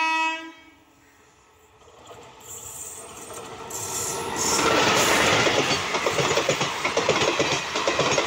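WAP-4 electric locomotive's horn, cutting off about half a second in. The train then approaches, growing louder, and from about four and a half seconds in the passenger coaches run past at speed with a rapid clickety-clack of wheels on the rails.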